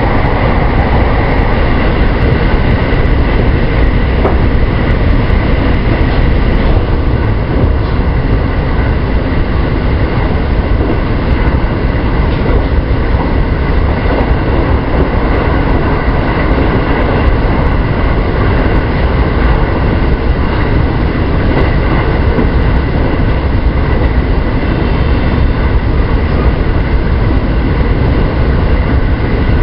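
A JR West 223 series electric train running at steady speed: a continuous rumble of wheels on rail, with a steady high whine and a few faint clicks.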